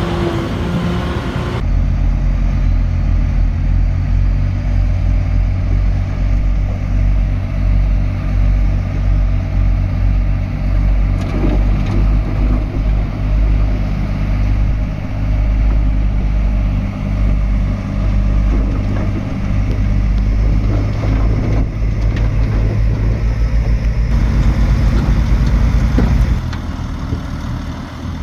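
Heavy diesel engine of earthmoving machinery running steadily with a deep, fast pulse. The sound changes abruptly about a second and a half in and eases off near the end.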